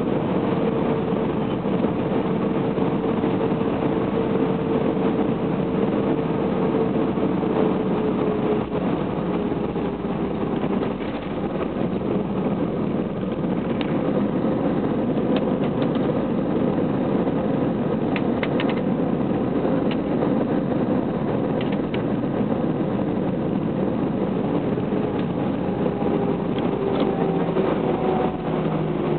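Airliner cabin noise during landing: a steady drone of jet engines and airflow, with an engine whine that drops in pitch twice as thrust is eased, and a few light rattles midway.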